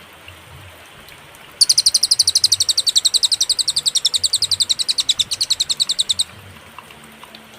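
Cililin (pygmy bushtit) song: a fast, even trill of high, thin chirps, about ten a second, starting about one and a half seconds in and stopping abruptly some four and a half seconds later, between quiet pauses.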